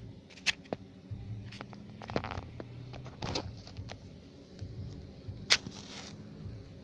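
A honeybee colony humming steadily as fanning bees ventilate the hive, with a few sharp clicks and taps over it. The loudest click comes about five and a half seconds in and is followed by a short hiss.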